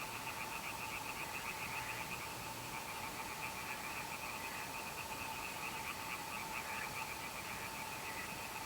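A night chorus of frogs calling continuously in fast pulsed trains, over a steady tone and a constant hiss.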